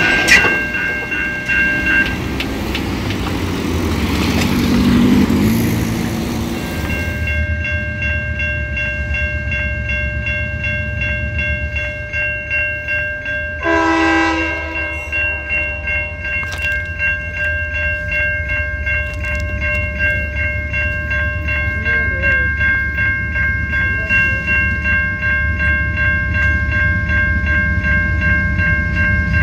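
A train rolling over a level crossing, with wheel rumble and a clickety-clack rhythm on the rails. The crossing warning bell rings steadily over it. Near the middle, the locomotive horn sounds one blast of about two seconds.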